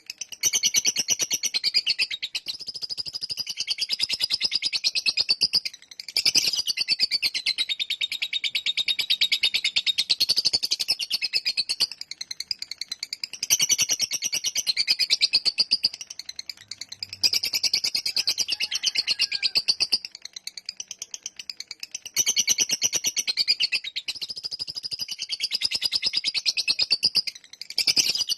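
Lovebird in 'ngekek panjang', its long chattering song: rapid, high-pitched stuttering notes strung into long bouts of several seconds each, with brief breaks between bouts.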